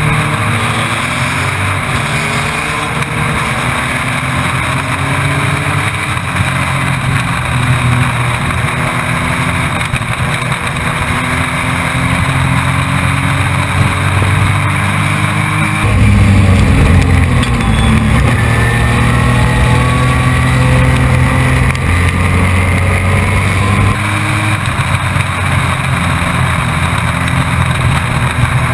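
Race truck's engine heard from on board at racing speed, its pitch repeatedly rising and falling as the driver goes on and off the throttle, with a steady rush of wind and road noise.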